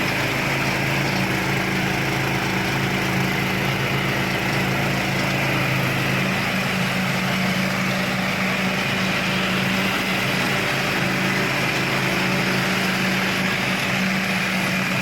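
Thai-built ride-on zero-turn lawn mower's engine running steadily at an even speed, a constant hum with a spread of mechanical noise over it.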